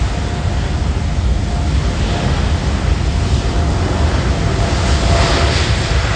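Boeing 747-8F's four GEnx turbofan engines running at departure thrust: a steady deep rumble and roar that grows brighter and stronger near the end.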